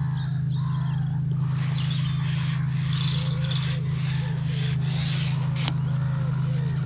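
Birds calling: a run of short calls in the middle and scattered higher chirps, over a steady low hum.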